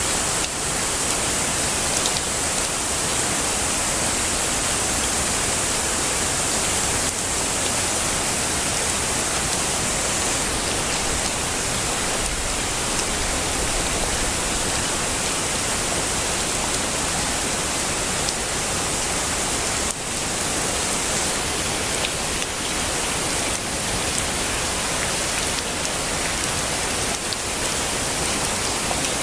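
Heavy rain falling steadily: a dense, even hiss, strongest in the high register, with a few faint single taps from drops.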